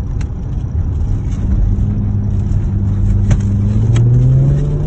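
Car engine running under load with a low rumble, its pitch rising steadily from about three seconds in as the car accelerates.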